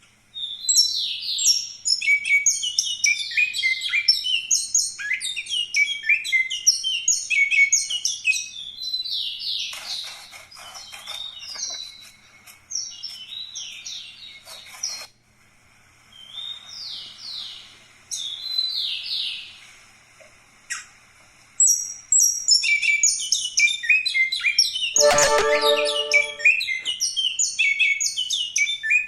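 Caged songbird singing a fast, high chirping song in dense bursts. It thins to scattered phrases in the middle and turns dense again for the last several seconds. About 25 s in there is one short lower-pitched call.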